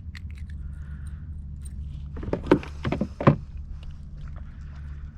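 Clicks and knocks of a small fish being handled and unhooked on a kayak, over a steady low hum. A few louder short sounds come about midway.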